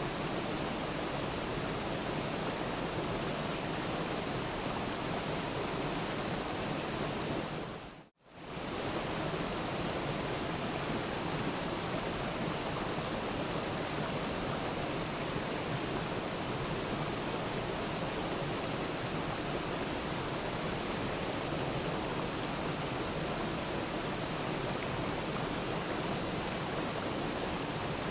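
Waterfall rushing as a steady, even wash of water noise. About eight seconds in it briefly fades out to silence and comes straight back.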